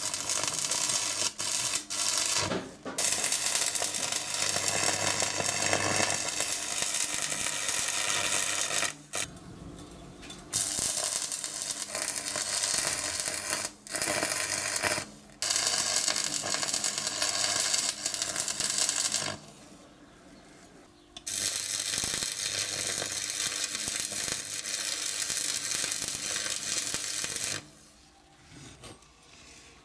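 Stick (arc) welding on steel square tubing: the arc crackles and sizzles in several long runs of a few seconds each, broken by short pauses between beads.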